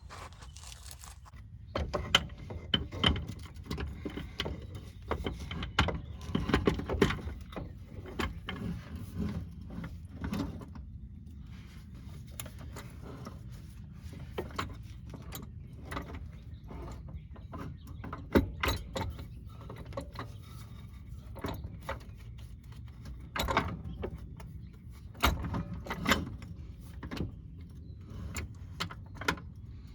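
Hand tools and metal car parts clinking, clicking and knocking irregularly during mechanical work, over a steady low hum.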